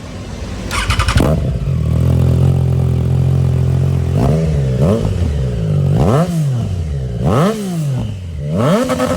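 Triumph Tiger Sport 660's three-cylinder engine running through a freshly fitted Zard full exhaust system: a steady idle, then revved in about five quick blips from about four seconds in, each rising and falling in pitch.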